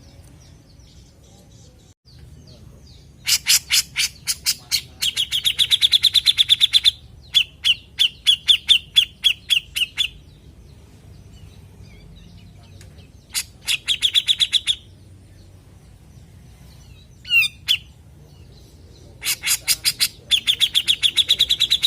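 Cucak jenggot (grey-cheeked bulbul) calling in repeated bursts of fast, harsh chattering notes, several a second. Each phrase lasts one to three seconds, with short pauses between them.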